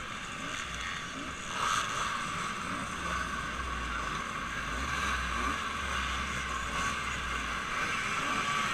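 Motorboat running underway: a steady engine hum under a rush of wind and water noise, which gets louder a little under two seconds in.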